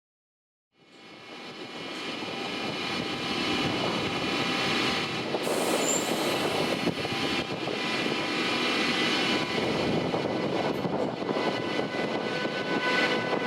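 Electric locomotive hauling a passenger train. Its sound fades in after a brief silence, grows louder over the first few seconds, then runs steadily as a rumble overlaid with a cluster of steady whining tones.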